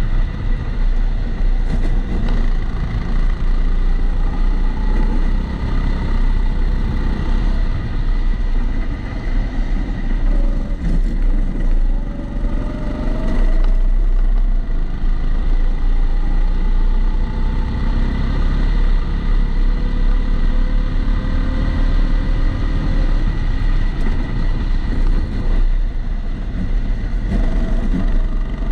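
Onboard sound of a Kombikart Eco rental kart driving a lap, its motor pitch rising and falling with the throttle, muffled by the camera's waterproof housing under a heavy low rumble. A steady high tone runs through it, the regular extra noise from the housing.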